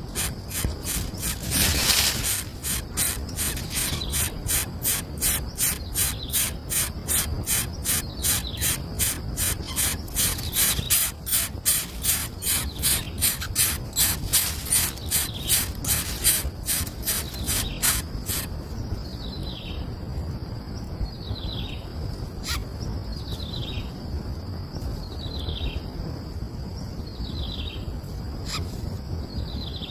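Birds calling: a fast run of sharp chip notes, about three a second, gives way after about eighteen seconds to a short falling whistle repeated every second and a half. A steady high whine runs underneath.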